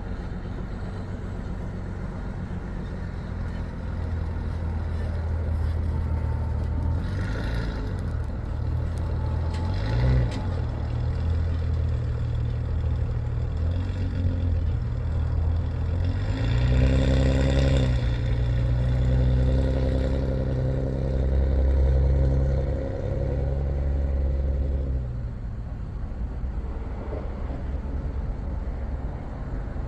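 Engine and road noise of a moving vehicle, a steady low drone; about two-thirds of the way through the engine note climbs and holds higher for several seconds before dropping back.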